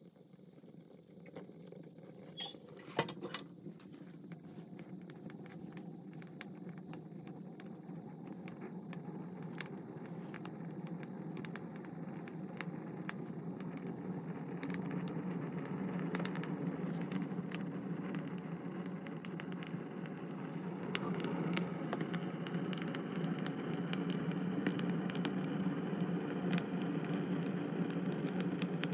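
Wood fire catching and burning, with irregular crackles and pops over a steady rushing sound that grows louder as the fire builds.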